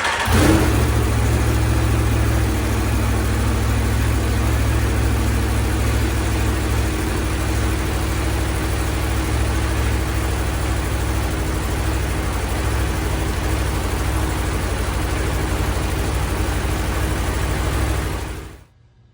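Aprilia Tuono V4 Factory's V4 engine idling steadily through a Spark Konix slip-on exhaust just after starting. It stops suddenly near the end.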